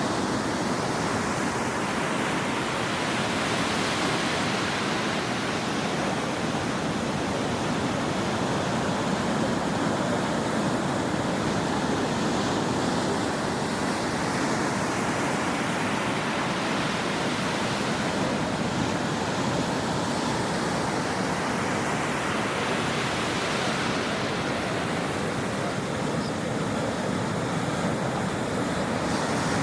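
Ocean waves breaking on a shore: a constant rush of surf that swells about three times as waves break and wash in.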